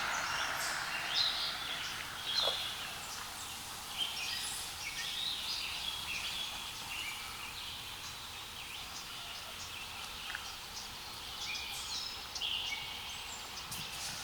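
Several birds chirping and singing, short calls overlapping throughout, over a faint steady hiss.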